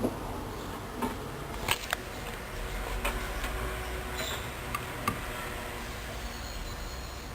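Hoover Dynamic front-loading washing machine running between wash phases: a steady low hum with a few scattered light clicks and knocks.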